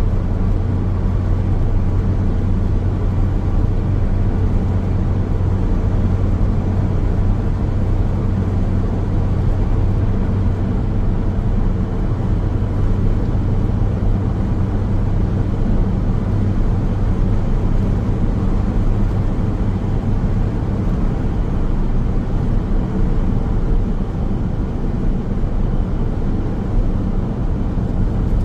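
Steady road noise of a car driving along a highway: an even, low rumble of tyres and engine that does not change.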